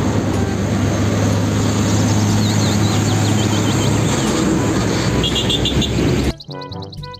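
Isuzu fuel tanker truck driving past close by: a steady diesel engine drone with tyre and road noise. It cuts off suddenly about six seconds in, and brass music follows.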